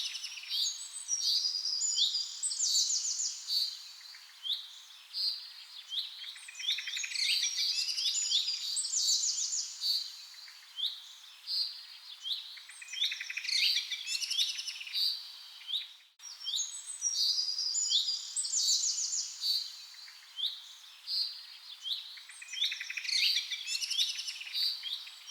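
Birds chirping and singing in a dense chorus of short repeated calls and rapid trills. The sound cuts out for a moment about two-thirds of the way through.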